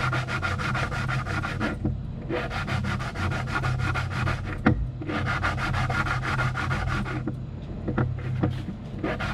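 Rapid back-and-forth hand scrubbing or sanding strokes, about eight to ten a second, in spells of about two seconds with brief pauses between them. A steady low machine hum runs underneath.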